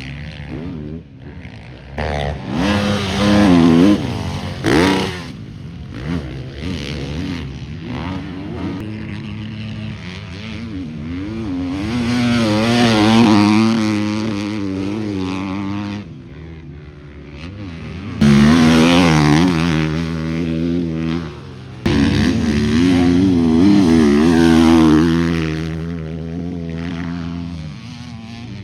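Motocross dirt bikes racing by on the track, engines revving up and dropping back as they shift and hit jumps. Several bikes pass close one after another, each swelling loud and then fading.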